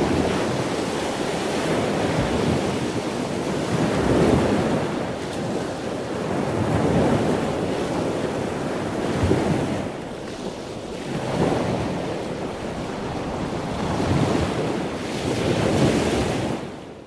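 A rushing, surf-like water sound with no clear tones, swelling and fading every two to three seconds.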